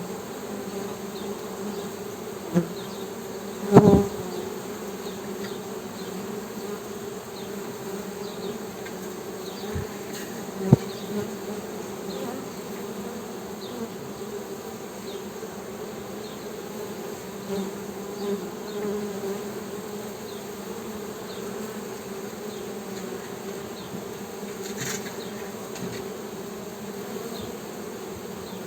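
Honey bees humming: a steady buzzing drone, with a few brief louder swells about four seconds in and near eleven seconds.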